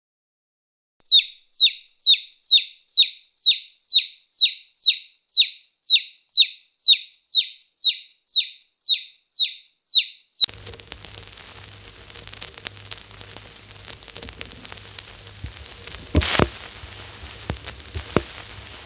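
A bird calling the same short, high, falling note over and over, about two calls a second for some nine seconds. It then cuts off abruptly to a faint noisy background with scattered clicks and one louder knock.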